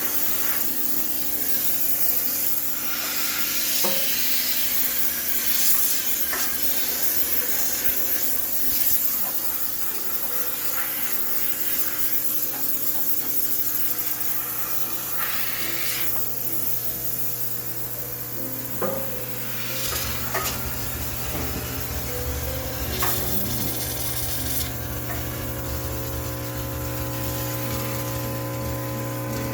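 Cleaning of a laundromat washing machine: a continuous hiss typical of a high-pressure steam cleaner, with rubbing and scraping and scattered clicks. A deeper hum comes in about twenty seconds in.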